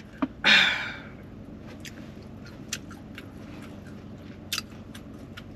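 A person chewing a mouthful of burrito, with short wet mouth clicks every fraction of a second, after a brief noisy burst about half a second in.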